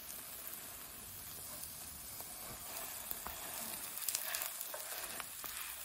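Shredded pizza cheese and mashed sweet potato sizzling in a nonstick frying pan as the browned cheese crust is rolled with a spatula. Small crackling pops run through the sizzle, a few louder ones about two-thirds of the way through.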